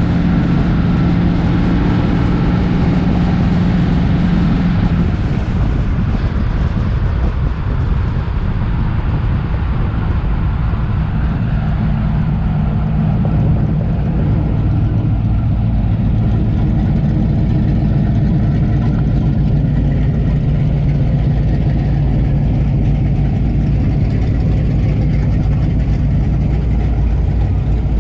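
Car engines running with a steady deep rumble; the tone shifts about five seconds in.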